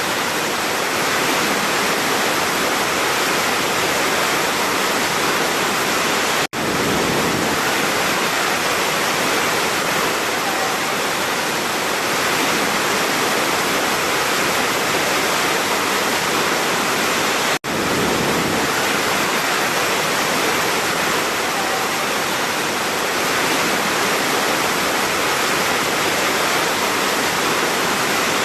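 Large waterfall, a steady heavy rush of falling water. The sound cuts out for an instant twice, about six seconds in and again past the middle.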